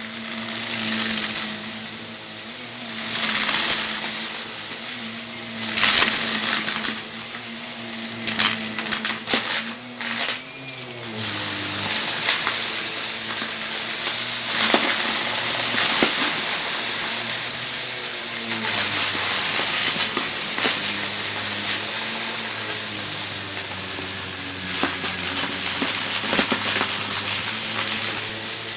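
A vacuum cleaner running and sucking up dry, crunchy debris, with a dense crackling and rattling of bits hitting the inside of the cleaner over the motor hum. About ten seconds in the motor dips briefly, then runs on at a lower pitch.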